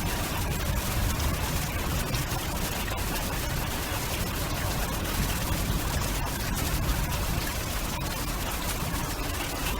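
Storm noise: a steady, dense rushing with a deep rumble underneath and fine crackle through it.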